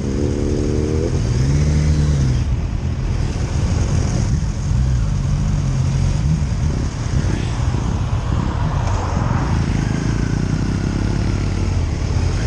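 Motorcycle engine running while under way, revving up and dropping in pitch through a gear change in the first couple of seconds. Steady engine and road or wind noise follow.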